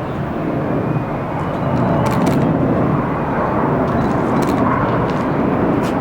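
Jet noise from a low-flying Boeing 747 Shuttle Carrier Aircraft carrying the space shuttle overhead: a steady, loud rush that grows louder about two seconds in. A few short clicks are heard over it.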